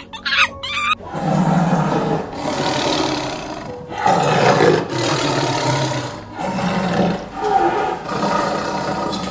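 A large animal making a series of long, rough roaring calls, each a second or two long with short breaks between, starting about a second in.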